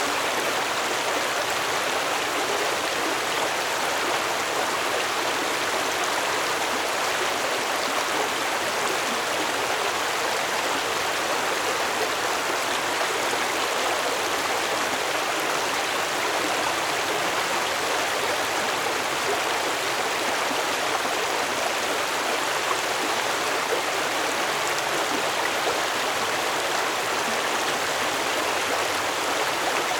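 Stream water flowing over rocks, a steady rushing and burbling.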